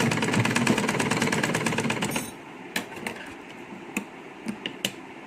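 Sewing machine running at speed with a fast, even ticking of the needle, stitching the end of a fabric tie onto the mask to lock it in place; it stops about two seconds in, followed by a few light clicks.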